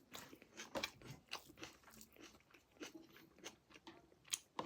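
A person chewing pork close to the microphone, with many short, irregular crunches and wet mouth clicks.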